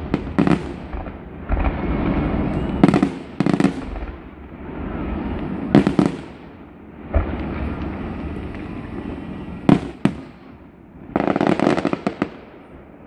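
Aerial firework shells bursting: a series of sharp booms a second or a few seconds apart, with a low rumble between them and a quick run of many pops near the end.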